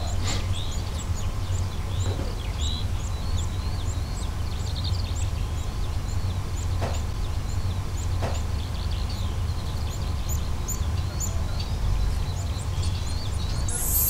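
Many small birds chirping in quick, high-pitched notes over a steady low rumble.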